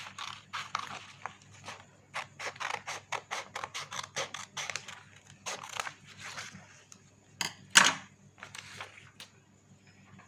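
Scissors cutting through coloured chart paper: a run of quick snips, about three a second, for the first six seconds or so, then one louder sharp snip near eight seconds.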